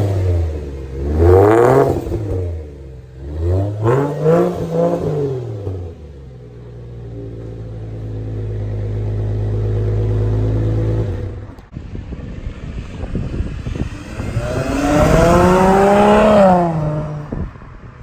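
2009 Subaru Legacy 3.0R's flat-six engine through a muffler-deleted exhaust, revved in three quick blips and then settling to a steady idle. After a sudden break, the engine climbs and falls once more, with a rougher, crackly edge.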